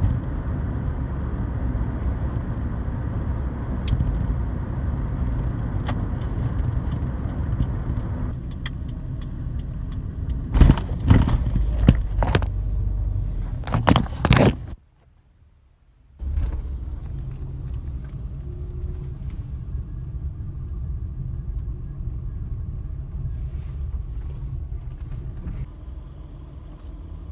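Steady low rumble of a car heard from inside its cabin. A cluster of sharp knocks comes about halfway through. The sound then cuts out for a moment and returns as a quieter, steady low hum.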